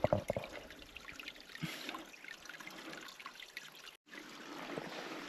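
Creek water trickling off a makeshift spout weighted with a rock, the kind used to fill a water bottle. A few knocks sound right at the start, and the sound drops out briefly about four seconds in.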